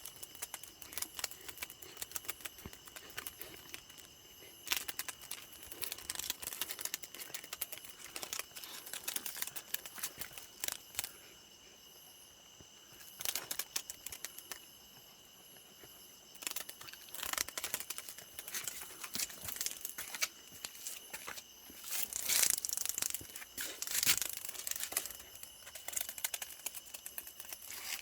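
A cicada fluttering and buzzing its wings in irregular crackly bursts, over a steady high-pitched whine.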